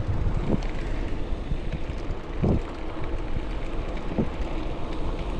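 Wind buffeting the microphone over a steady low rumble of an e-bike rolling along the road.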